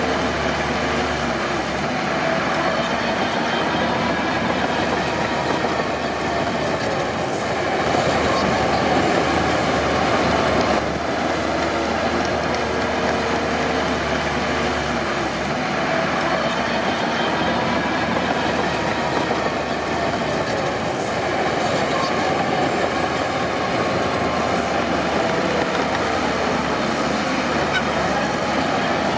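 Crawler bulldozer at work: its diesel engine running steadily, with the steel tracks grinding and squealing, a wavering pitched whine over a continuous rumble.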